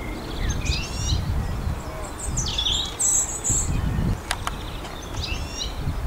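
A songbird singing three short, warbling phrases, with an uneven low rumble underneath and two brief clicks about four seconds in.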